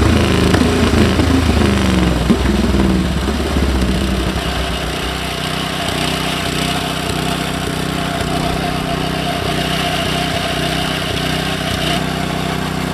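Vintage speedway motorcycle's single-cylinder engine being blipped up and down for the first few seconds, then settling to a steady fast idle.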